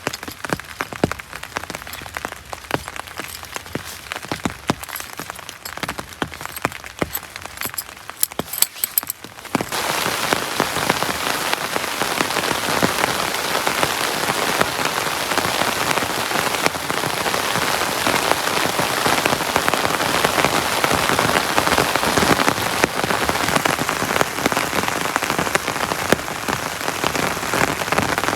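Rain: scattered separate drops landing at first, then about ten seconds in it switches suddenly to heavy, steady rain.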